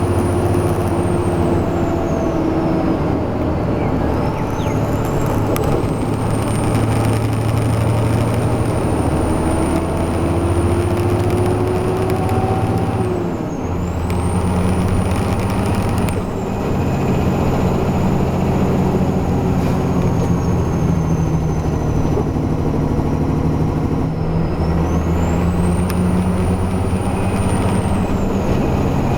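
Heavy truck engine of a tractor unit pulling a B-train running steadily under load, its note shifting at two brief dips in level near the middle. A high whistle over it slides down and back up three times.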